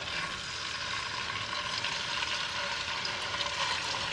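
Chicken pieces sizzling in hot ghee in a frying pan: a steady crackling hiss with small pops, slowly growing a little louder.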